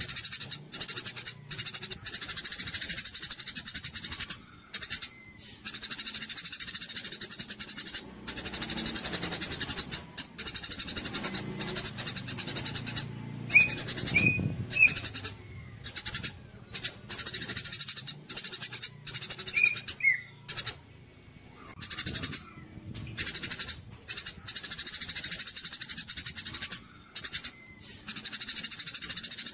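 A songbird singing long, rapid, high-pitched trilling phrases separated by short pauses, with a few short, lower chirps in between.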